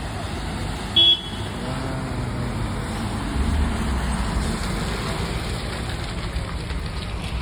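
A car coming along a flooded street, its engine running steadily, with one short, loud horn toot about a second in.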